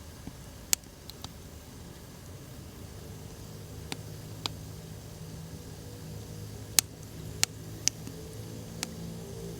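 Wood campfire crackling, with scattered sharp pops at irregular intervals over a low steady background.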